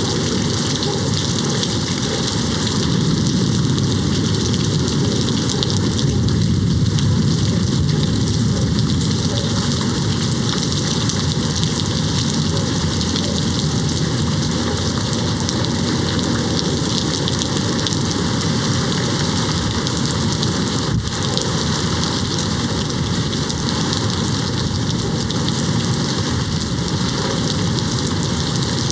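Steady heavy rain hitting a window, with a low rumble of distant thunder swelling a few seconds in.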